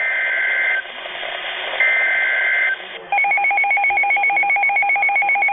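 Emergency Alert System header: two roughly one-second bursts of screechy digital data tones, then a loud, rapidly pulsing two-pitch alert tone that starts about three seconds in, signalling a severe thunderstorm warning about to be read.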